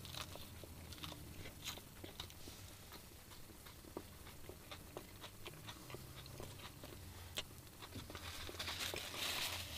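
A man chewing a mouthful of crispy chicken burger: faint, irregular wet clicks and small crunches, over a low steady hum. A soft hiss rises briefly near the end.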